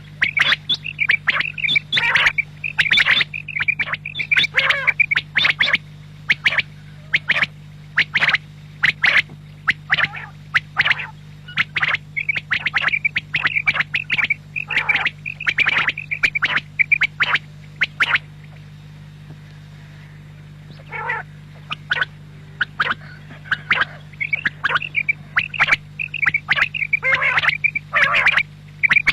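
Quail calling in rapid runs of short, sharp repeated calls, pausing for a few seconds about two-thirds of the way through before starting again. A steady low hum runs underneath.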